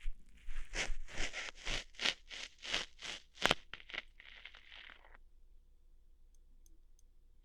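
Close-up ASMR ear-hair-plucking sounds: a quick run of scratchy, rustling pulls, about three a second, with one sharper snap about three and a half seconds in. A softer brushing rustle follows, then it goes quiet for the last couple of seconds.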